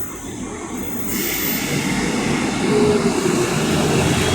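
Class 158 diesel multiple unit running into the station, its engine and wheel noise growing louder, with a brief faint squeal in the second half.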